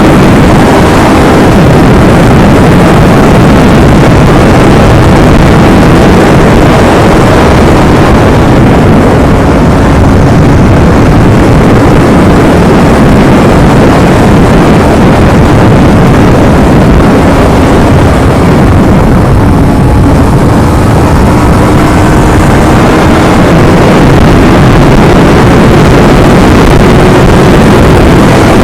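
Yamaha R25's 250 cc parallel-twin engine on its stock exhaust, running at a steady cruise under heavy wind rush. Its note climbs gently in the second half.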